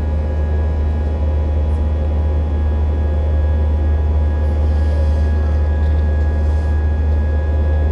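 Passenger airliner cabin in flight: a steady, heavy low engine drone with a few constant whining tones above it.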